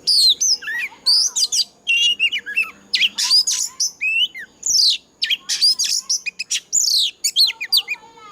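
Oriental magpie-robin singing a fast, varied song of clear whistles, quick rising and falling slides and trills, phrase after phrase with only short breaks. A faint steady high-pitched tone runs beneath the song.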